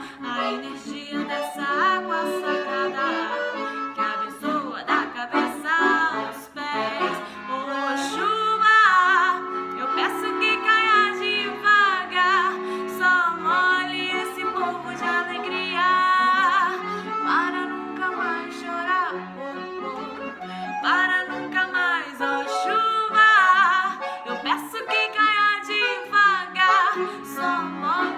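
Accordion playing the song's melody over held chords, an instrumental passage with no singing.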